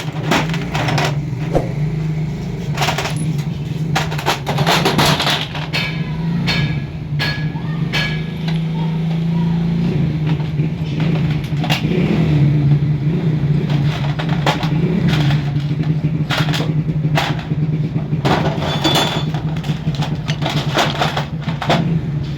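An engine running steadily at idle, with frequent sharp metallic clicks and knocks of tools and parts being handled over it.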